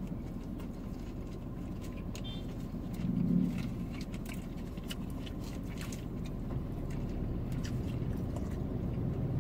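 People chewing and eating, with small clicks and smacks and the crinkle of a paper food wrapper, over a steady low hum inside a car. A short low murmur comes about three seconds in.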